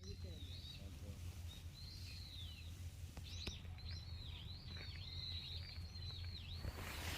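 A small bird singing outdoors: a run of high whistled notes that swoop down and back up, repeated for several seconds, over a steady low rumble of outdoor ambience.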